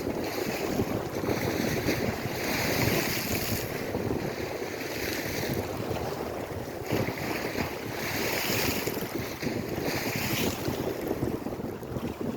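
Lake Erie waves washing in, a hiss that comes and goes in surges lasting a second or more, over wind rumbling on the microphone.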